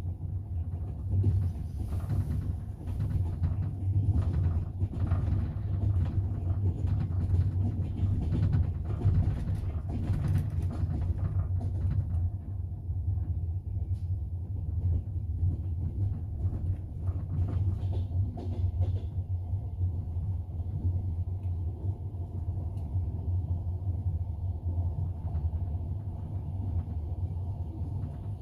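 Double-decker passenger train running on the rails, heard from inside the carriage: a steady low rumble with the clatter of wheels over the track. The clatter is busiest in the first half and settles into a smoother rumble after that.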